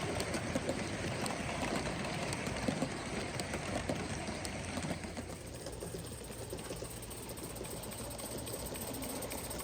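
Gauge 1 live-steam model locomotive running, a fast steady chuffing with a rapid mechanical clatter, easing off a little about five seconds in.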